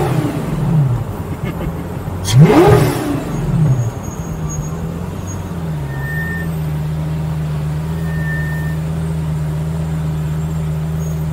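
Straight-piped Lamborghini Gallardo 5.0 V10 settling from a throttle blip, blipped again sharply about two seconds in, its pitch shooting up and dropping straight back, then idling steadily.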